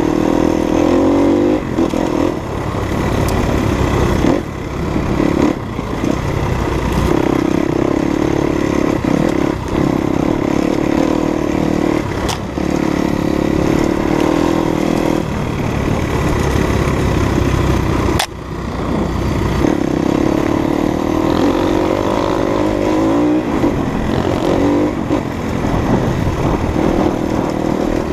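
Off-road dirt bike engine revving in repeated surges as the throttle is opened and eased off while riding a rough trail, with a few sharp knocks.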